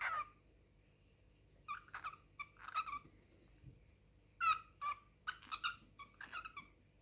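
Cockatiel chirping and warbling in short, quick calls, two bursts of several notes each, the first about two seconds in and the second about four and a half seconds in.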